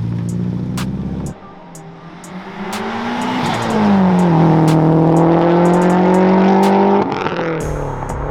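Background music with a steady beat that drops out about a second in for the Subaru WRX STI's turbocharged flat-four. The engine revs up, dips, then holds a loud steady note for about three seconds before cutting off suddenly as the music returns.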